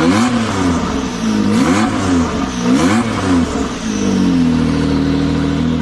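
An engine revving up and falling back three times, then holding a steady speed from about four seconds in.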